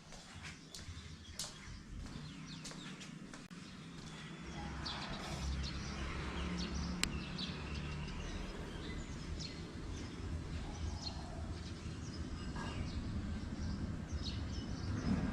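Birds chirping over a low, steady background rumble, with a few sharp clicks in the first few seconds.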